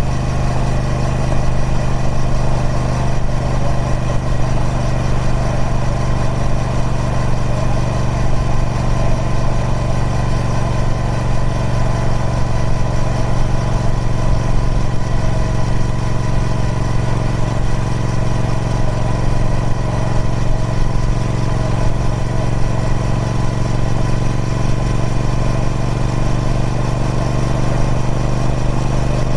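Triumph Speed Twin 1200's parallel-twin engine through its stock exhaust, running at a steady, unchanging engine speed with no revving.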